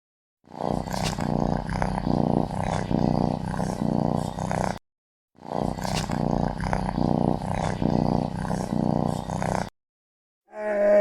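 An animal growling in a low, rough, continuous way, in two stretches of about four seconds each with a short silent break between them.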